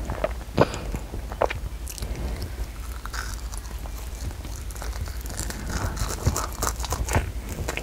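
A child biting and chewing a soft round jelly ball close to a clip-on microphone: wet, irregular chewing and mouth sounds, with a couple of sharp clicks early in the bite.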